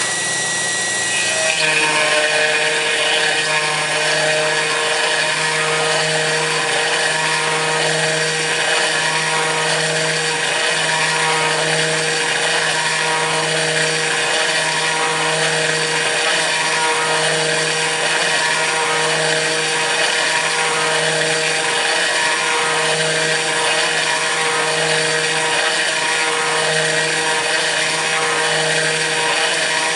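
Kress FME-1050 router running as a CNC spindle and milling aluminium: a steady high whine with harsh cutting noise. A low hum pulses on and off every second or so as the machine moves, and the whine shifts in pitch about a second and a half in.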